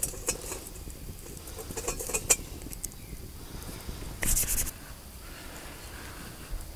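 Metal camp cookware being handled for coffee: scattered sharp clicks and clinks, with a short rattle about four seconds in.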